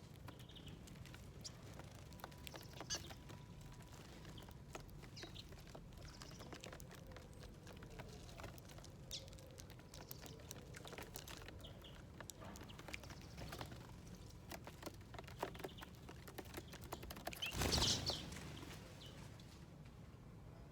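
Small birds feeding at a seed dish: many light, irregular taps and clicks of pecking, with a few brief high chirps. A louder rushing burst, under a second long, comes near the end.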